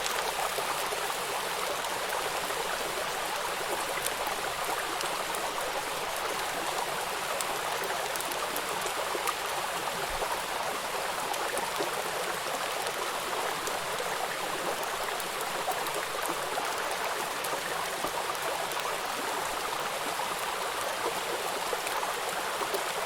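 Water rushing and splashing over rocks in a small river waterfall, a steady, unbroken rush.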